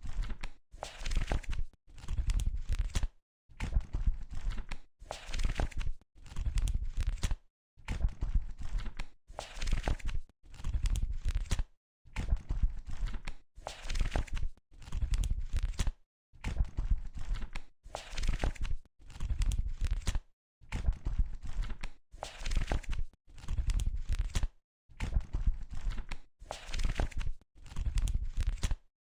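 Pages of a book being turned one after another, each flip a short papery rustle with a soft slap as the page lands, repeating about once every second or so with short silent gaps between them.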